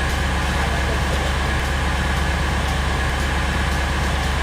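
Steady low engine drone with a deep hum and a constant hiss above it, unchanging in pitch and level.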